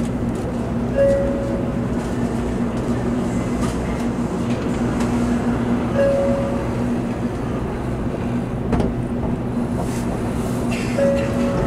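Cabin noise inside an N700A Shinkansen car as the train runs: a steady rumble with a low hum under it, and a short higher tone that comes three times, about five seconds apart.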